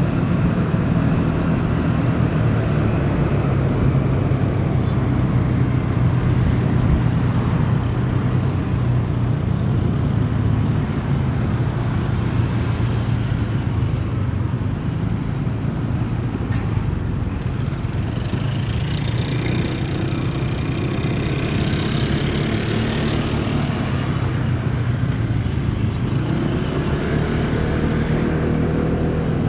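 Motorcycle engine running steadily while riding in city traffic, with the hiss of passing vehicles and an engine note rising near the end.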